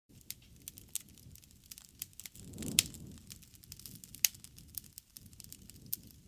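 Wood fire crackling: a steady scatter of sharp pops and snaps over a low rush of flame, with two louder pops about three seconds in and just past four seconds.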